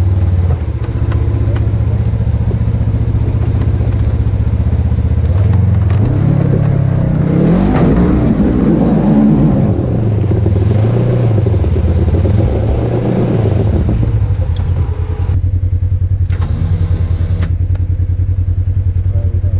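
Side-by-side UTV engine running steadily, then revved up and down for about eight seconds as the machine tries to pull up a slippery hill. It then drops back to a steady idle.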